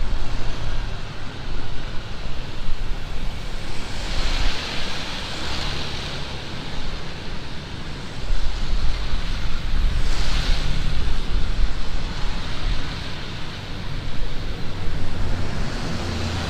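Heavy rain falling in strong wind, with gusts buffeting the microphone as an uneven low rumble. The rain's hiss swells about four seconds in and again about ten seconds in.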